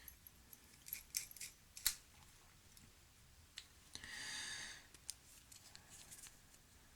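Light clicks and taps of small lamp parts being handled and fitted together, several close together about a second in, with a brief scraping sound about four seconds in.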